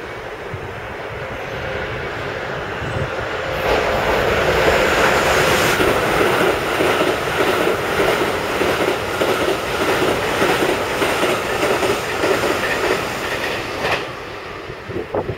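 Keikyu electric train passing through at speed without stopping. The noise builds over a few seconds, then comes a long loud stretch of wheels clattering over rail joints, and it drops off sharply near the end as the train clears.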